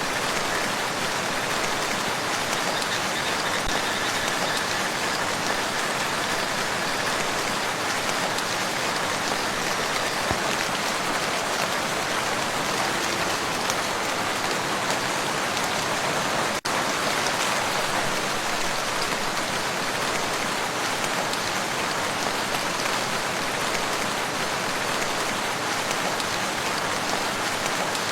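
Steady, dense rain falling on a lake's surface, with one momentary break a little past the middle.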